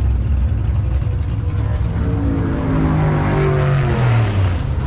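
A motor vehicle passing close by, its engine note falling in pitch as it goes past, over a steady low rumble.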